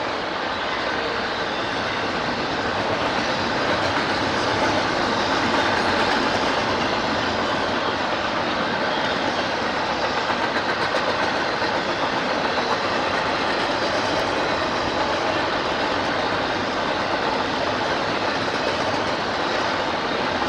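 A train rolling steadily past, its cars' wheels clattering in a quick rhythm over the rails, a little louder a few seconds in.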